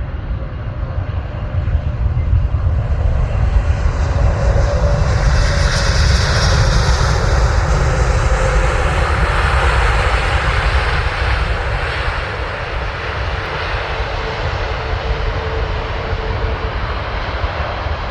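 An Airbus A330neo airliner's Rolls-Royce Trent 7000 jet engines passing on landing approach. The rumble and hiss swell to their loudest about six to ten seconds in, with a faint steady whine, then slowly fade.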